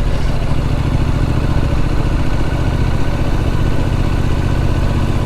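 Triumph Street Scrambler's parallel-twin engine running at a steady pace while the motorcycle is ridden along the road.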